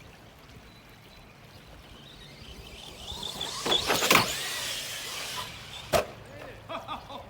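Arrma Granite 3S RC monster truck's brushless electric motor whining as it accelerates hard toward the jump, loudest about four seconds in, then a single sharp impact about six seconds in as the truck comes down.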